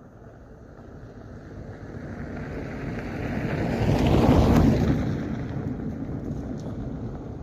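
A vehicle driving past close to the microphone. Its noise builds steadily, peaks a little past halfway, then fades as it goes by.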